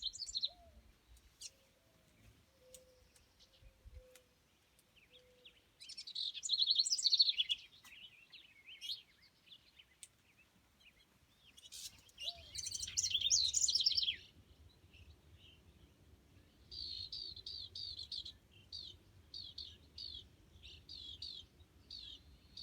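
House wren singing: two rapid, bubbling song bursts a few seconds apart, then a run of short repeated notes near the end.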